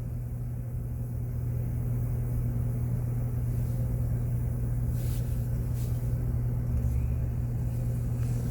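A 2015 GMC Savana van's engine idling steadily, a low even hum heard from inside the cabin, with a few faint ticks about five to six seconds in.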